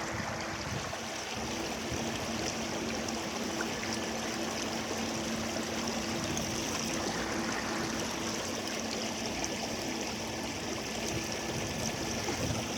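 Water rushing steadily along the hull of a small motorboat underway, with a faint low engine drone beneath it.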